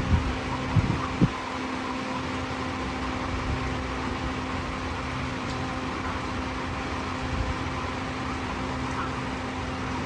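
A steady mechanical hum, like a running fan, with a few short low knocks in the first second and a half.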